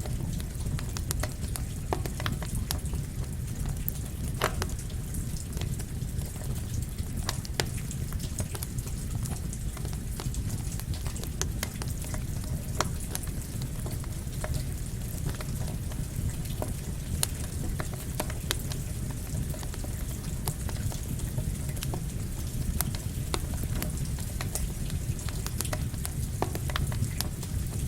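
Campfire crackling, with irregular sharp pops scattered throughout, over a steady low rush of fire and rain noise.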